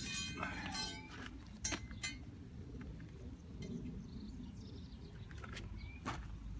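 A few sharp metallic clinks and knocks, spaced a second or more apart, from steel tractor-jack and wheel parts being worked as the tractor is lowered onto the wheel.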